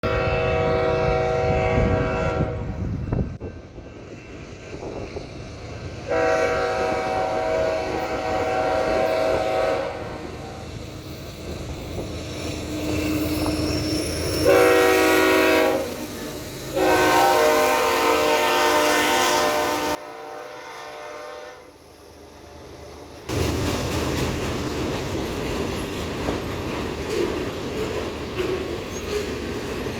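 Diesel locomotive's multi-note air horn sounding the grade-crossing signal (long, long, short, long) as the train approaches. From the last third on, the train rolls past with a steady rumble of wheels on rail.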